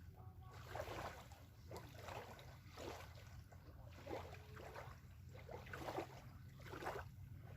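Small waves lapping softly and irregularly at a sandy shoreline, over a faint steady low rumble.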